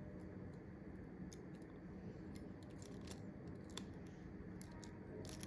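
Scattered faint small clicks and scrapes of a hand tool prising the small microphone part off an iPhone screen assembly, over a steady low hum.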